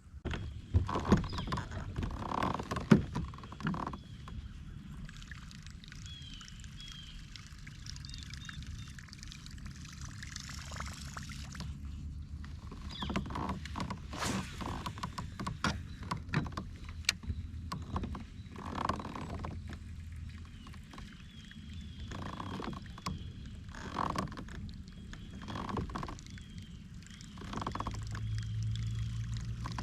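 Kayak being paddled: the paddle blades dip and splash in the water in irregular strokes a few seconds apart.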